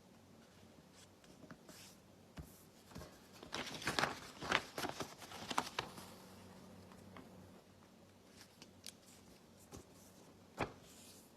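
Sheet of printer paper being handled and folded: irregular rustling and scraping as the corners are folded in and the creases pressed flat, busiest about a third of the way in and again near the end.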